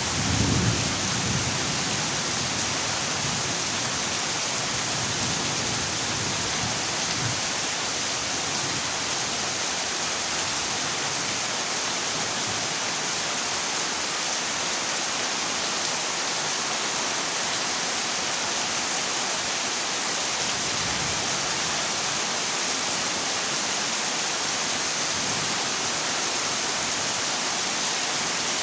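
Heavy rain falling steadily on a corrugated zinc roof, with a short low rumble of thunder at the start.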